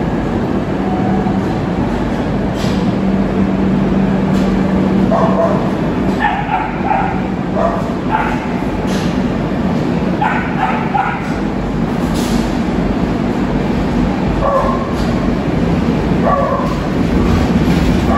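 Passenger train coaches rolling past a platform: a steady rumble of wheels on rail with occasional sharp knocks at rail joints. From about five seconds in, a dog barks in short repeated bursts, several times over.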